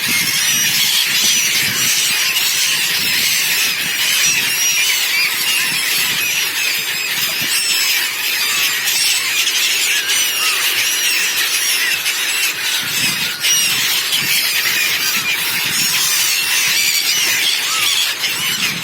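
A large flock of seabirds calling all at once: a dense, continuous clamour of many overlapping short, high squealing calls.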